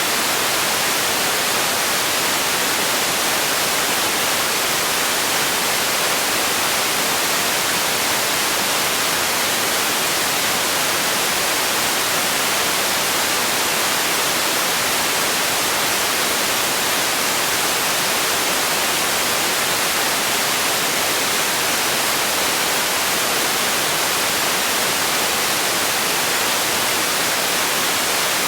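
Steady electronic noise, a bright, even hiss like white noise, unchanging throughout.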